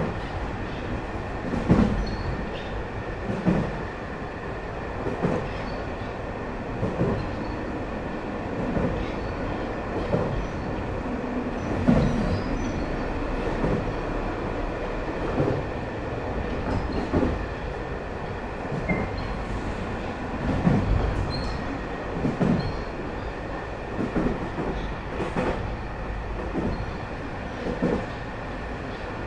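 Train running along the track, heard from inside the carriage: a steady rumble with a heavier clack from the wheels roughly every one and a half to two seconds.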